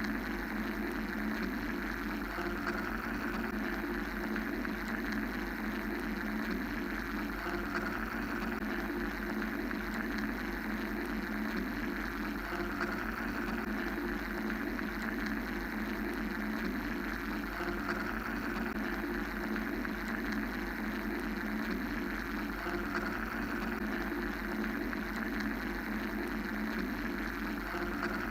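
Steady machine-like hum and rushing noise of a mechanical white-noise track: a low drone under a band of rumble, with a higher hiss that slowly swells and fades about every five or six seconds.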